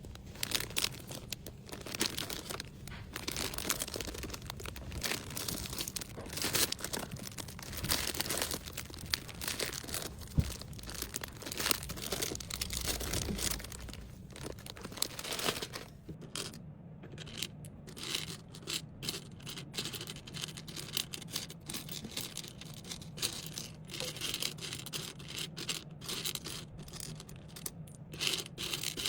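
Packaging rustling, crinkling and tearing as small items are handled and packed, with many irregular small clicks and taps.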